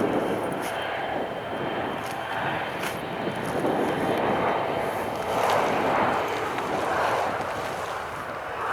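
Jet airliner's engines, a continuous rushing noise that swells about halfway through.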